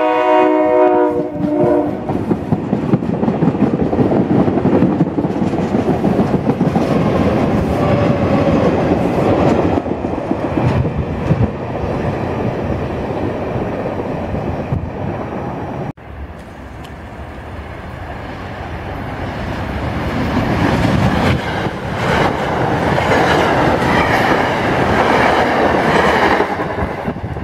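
SEPTA Silverliner IV electric railcar sounding a chord horn that stops about two seconds in, then running past loudly with the wheels clicking over the rail joints. After a sudden cut about halfway through, another electric commuter train's rumble builds as it passes close by.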